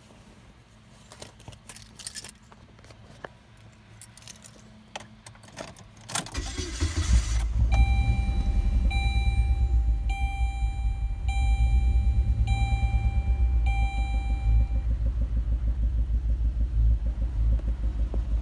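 Car keys jangling and clicking, then the car's engine cranks and starts about six seconds in and settles into a steady idle. While it idles, a dashboard warning chime beeps six times, a little over once a second.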